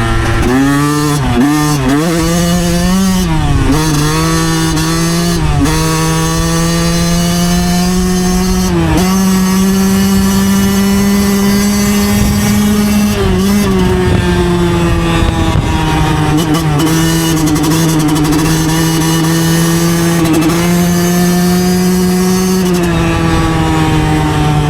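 A 2009 Yamaha YZ125's two-stroke single-cylinder engine under way on the move, the revs rising and falling over the first several seconds. It then holds a fairly steady pitch, with brief dips twice in the middle and a drop near the end.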